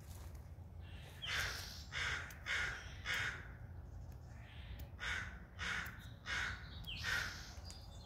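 A bird calling in two runs of about four short calls each, the calls about half a second apart and the runs a couple of seconds apart.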